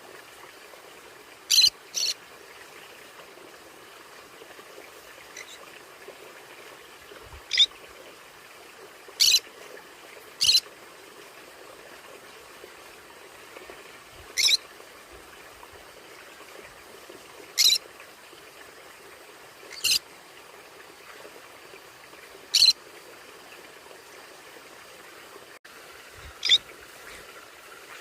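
Conure parrots giving short, high-pitched calls, about ten in all, one to four seconds apart at an irregular pace, over a steady low hiss.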